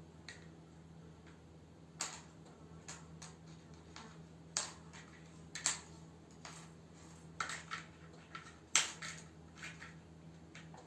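Irregular light clicks and taps of small hard objects being knocked about by playing kittens, the sharpest about three-quarters of the way through. A steady low hum runs underneath.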